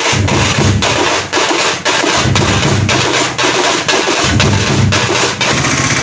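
Festival percussion troupe drumming a steady, loud beat of about two or three strokes a second over deep drum thuds; the beat stops near the end.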